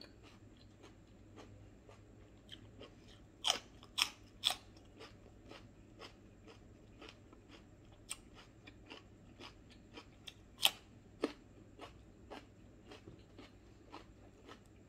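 Close-up crunching and chewing of food being eaten by hand, with small mouth clicks throughout. Three loud crunching bites come quickly about three and a half seconds in, and two more near eleven seconds.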